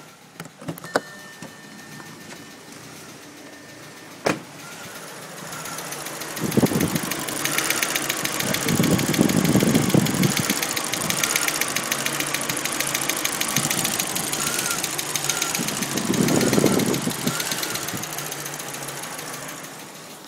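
Audi A4 engine running just after a timing belt replacement, with a fast, even ticking over it that the owner calls weird. The engine gets louder in surges, and a single loud click comes about four seconds in.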